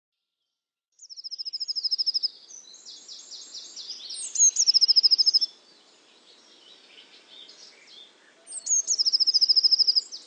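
A songbird singing in phrases of fast, high trilled notes, starting about a second in, loudest in the middle, with another phrase near the end. Faint outdoor background noise lies beneath.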